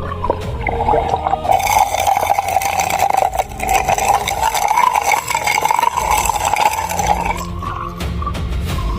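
Suction intake of a pump-driven siphon gold sluice drawing in water and air, a steady wavering whine with hiss over it that weakens near the end.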